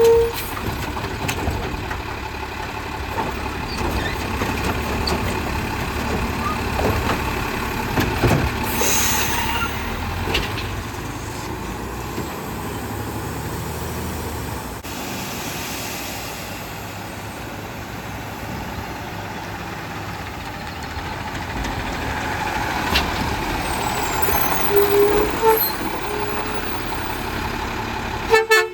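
Autocar WX64 garbage truck with a Heil Rapid Rail side-loader body running, its engine steady throughout, with a short hiss of air about nine seconds in.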